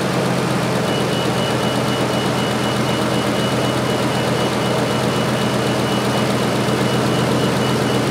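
Ford F350 pickup's gasoline engine idling steadily during a charging-system test, with a thin steady high tone coming in about a second in.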